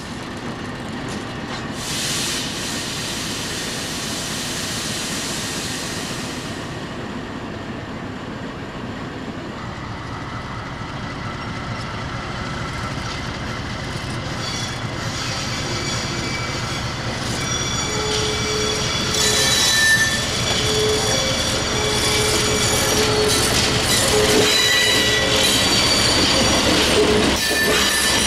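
A diesel freight train rolling past close by. A low engine rumble builds and grows louder through the second half. From about two-thirds of the way in, high wheel squeal from the wagons comes and goes.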